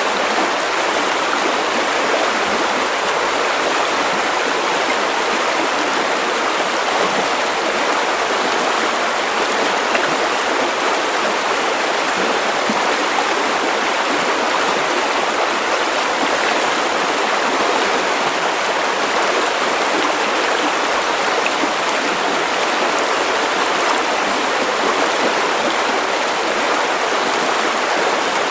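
River water running over stones, a steady rushing and babbling with no pauses.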